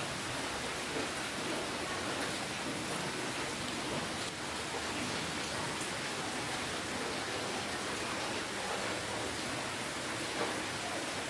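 Steady rainfall, a continuous even hiss with faint scattered drop ticks.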